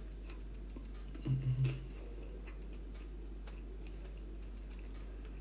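A person chewing a mouthful of chickpeas and rice, with a few faint fork clicks, and a short low hum of the voice about a second and a half in.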